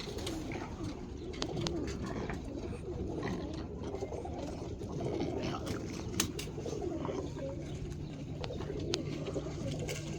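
Roller pigeons cooing together in their loft, a continuous low warbling murmur, with a few sharp clicks, the loudest about six seconds in.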